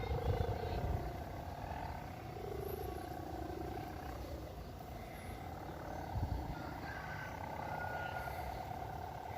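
Strong wind buffeting the microphone in uneven gusts, with a wavering hum running underneath.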